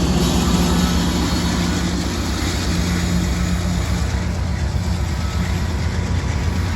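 Freight train of ethanol tank cars rolling past with a steady low rumble and a fast low pulsing. A faint steady tone fades out about two seconds in.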